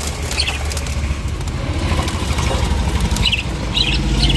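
Lovebirds giving short high chirps, a few scattered calls mostly in the second half, over a steady low rumble.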